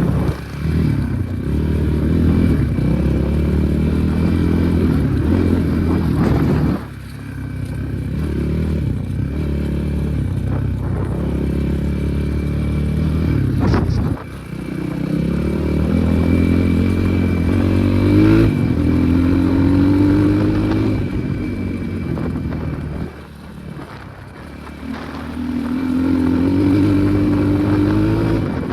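Enduro motorcycle engine running under load while ridden off-road. It is revved up repeatedly, rising in pitch with each throttle opening. The throttle is eased off briefly about a quarter of the way in, about halfway, and again near the end.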